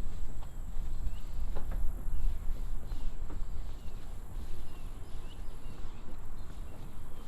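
Outdoor trail ambience dominated by a low rumble on the microphone, with a steady high insect whine and faint short chirps scattered throughout.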